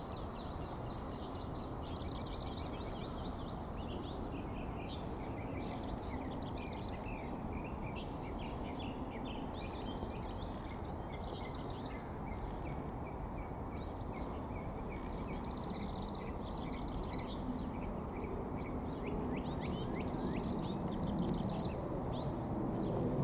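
Many small songbirds chirping and chattering almost without pause, over a steady low background rumble.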